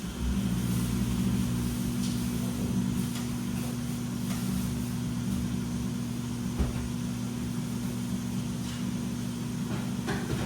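Washing machine drum motor running with a steady low hum, with a few faint clicks over it.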